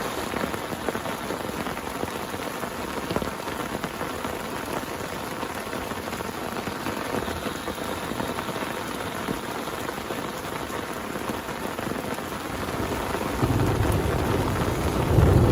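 Heavy rain falling steadily on a surface, with many close individual drop hits. Near the end a low rumble starts to build.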